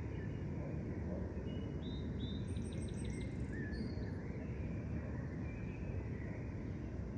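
Small birds calling over a steady low background rumble: scattered short whistled notes, and about two and a half seconds in a quick run of five high chips in under a second.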